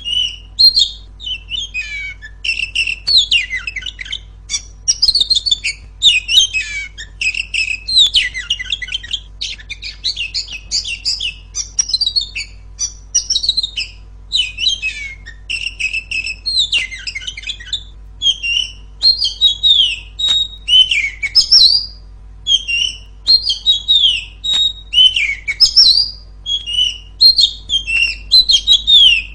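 Female Oriental magpie-robin (kacer) singing loudly: an unbroken run of rapid, varied chirps, trills and whistled glides with only brief pauses between phrases.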